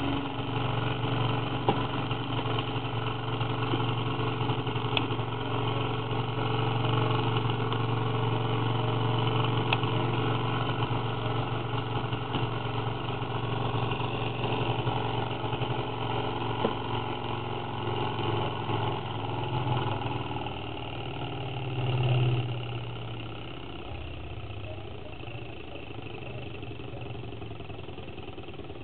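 Ross-yoke Stirling engine running with a steady mechanical hum. About twenty seconds in the sound wavers and swells briefly, then drops to a quieter, steady level.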